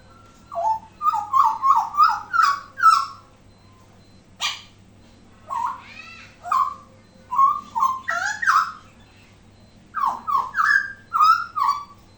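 Hooded butcherbird singing: a series of loud, short pitched notes, many falling in pitch, in three runs separated by brief pauses.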